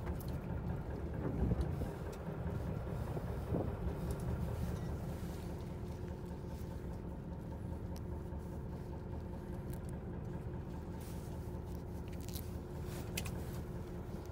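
Steady low hum of a fishing boat's engine, heard aboard, with a few faint clicks and knocks.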